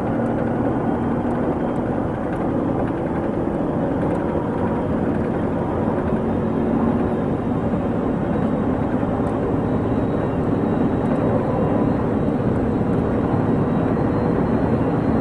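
A vehicle running steadily, an even engine-and-road noise without change.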